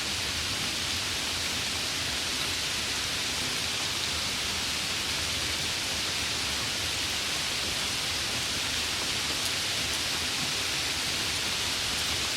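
Heavy rain falling steadily, an even hiss with no breaks or thunder claps.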